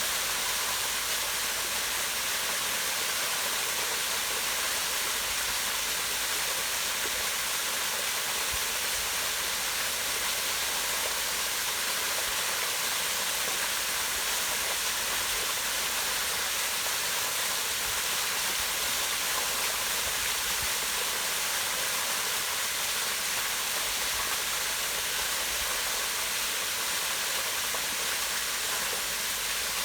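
Waterfall pouring down a rock face into a pond: a steady, even rush of water, mostly a high hiss with little low rumble.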